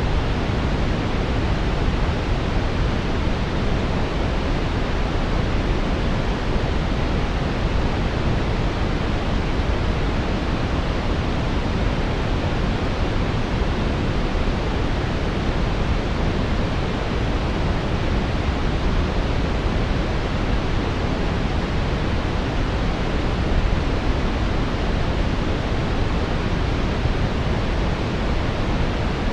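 Steady brown noise: an even, unchanging rumbling hiss, deepest in the bass and falling away in the highs, with nothing else in it.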